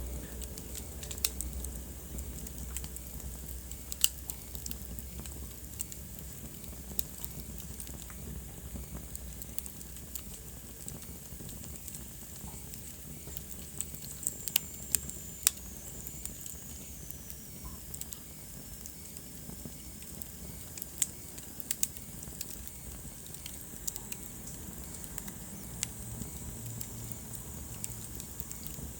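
Wood fire burning in a fireplace: irregular crackles and sharp pops over a steady hiss, with a faint high whistle that slides lower about halfway through.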